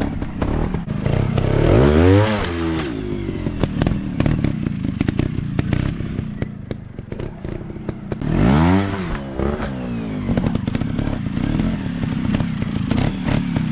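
Off-road trail motorcycle engine running, its pitch rising and falling twice, about two seconds in and again about eight and a half seconds in. Constant clattering and knocking goes on under it.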